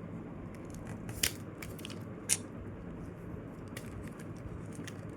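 A sheet of paper being folded and creased by hand: crisp crinkles and ticks, two sharper ones about a second and two seconds in, over a steady low hum.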